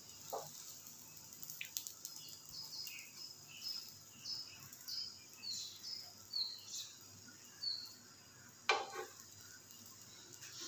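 Egg-and-onion-coated bread slices frying on a flat griddle (tawa), with a faint steady sizzle. A run of short, high, falling chirps repeats in the background for several seconds, and a single sharp click sounds near the end.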